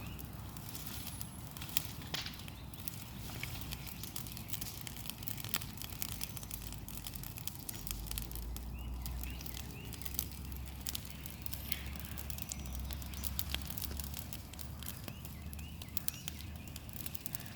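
Bonfire of dry tree branches crackling, with many scattered sharp pops and a low rumble that swells through the middle.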